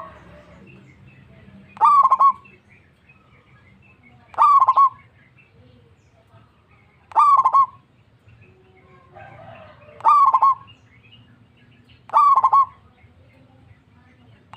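Zebra dove (perkutut) cooing: a short, stuttering coo repeated about every two to three seconds, five times over.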